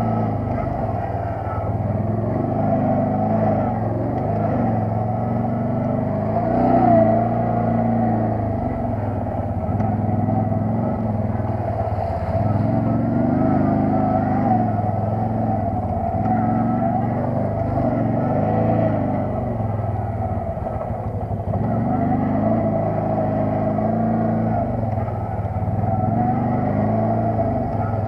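ATV (quad bike) engine running steadily while being ridden, the revs rising and easing off every few seconds.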